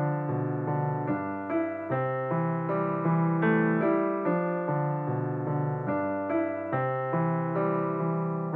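Background piano music: an even run of notes, about two or three a second, over a low bass line.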